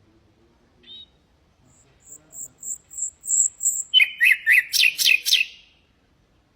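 Nightingale singing one song phrase: a soft opening note, a run of thin, high repeated notes, then a loud, fast series of falling notes at about five a second.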